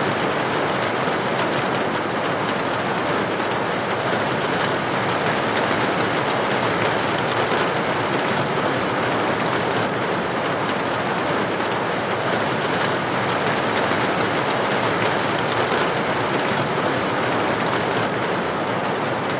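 Steady rain pattering on a window pane: a dense, even hiss of many small drops with no change in strength.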